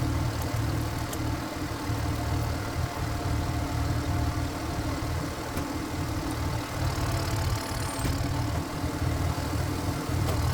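Walk-behind power tiller's single-cylinder diesel engine running steadily at an even throb.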